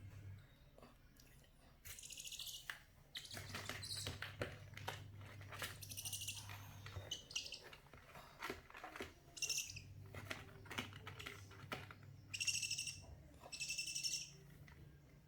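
Baby owl calling over and over in short high-pitched calls, the two loudest near the end. A low steady hum comes and goes underneath.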